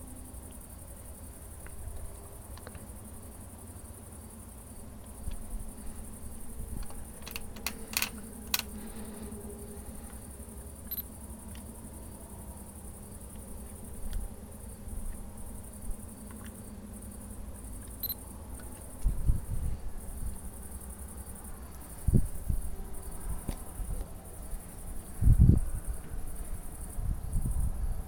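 Insects, likely crickets, chirping steadily as a high, even background, over a low rumble. Several short, loud, low thumps in the last ten seconds.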